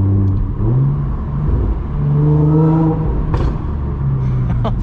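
Audi S4 B8.5's supercharged 3.0-litre V6 running through an AWE Touring cat-back with test pipes, pulling at low revs with two gentle rises in pitch as the car accelerates. A few short brake squeaks near the end come from Hawk performance pads.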